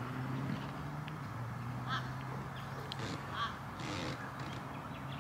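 Quiet outdoor ambience: a few short bird calls about two, three and four seconds in, over a low steady hum.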